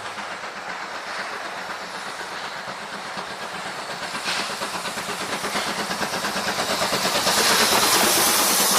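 Ōigawa Railway's Thomas the Tank Engine steam locomotive running along the track, wheels clattering on the rails and growing steadily louder as it comes closer. Steam hisses strongly over the last couple of seconds.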